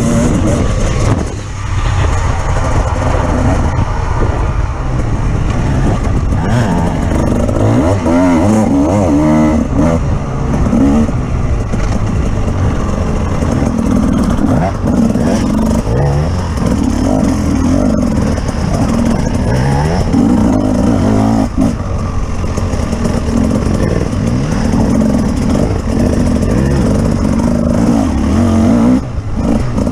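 An off-road vehicle's engine running hard over rough ground, revving up and falling back again and again.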